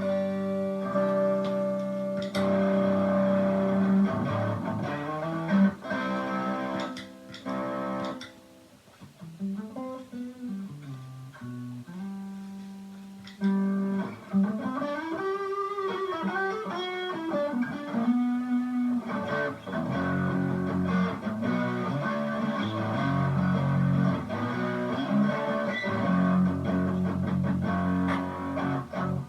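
Electric guitar played through a distortion pedal and small amp: held distorted chords at first, then a quieter passage of single-note lead lines with string bends, then rhythm chords again from about two-thirds of the way in.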